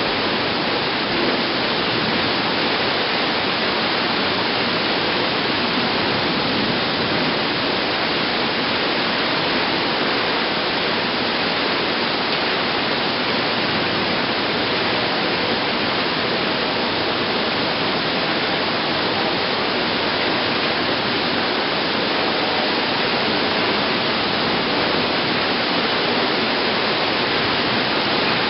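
Torrential thunderstorm downpour: heavy wind-driven rain pouring in a dense, steady hiss with no breaks.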